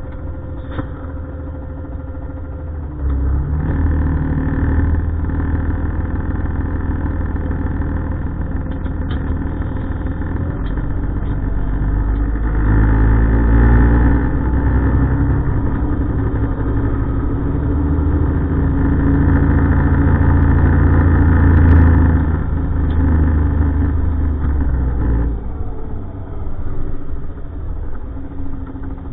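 Heavy diesel refuse truck engine running close by. It steps up in loudness about three seconds in, swells twice more as it is revved, then drops back near the end.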